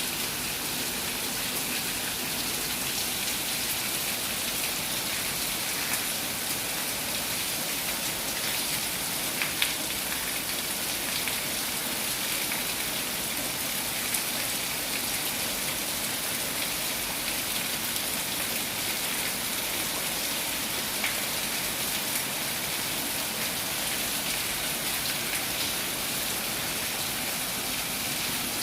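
Steady rain falling, a continuous hiss with scattered sharper drop ticks; a few drops land louder than the rest.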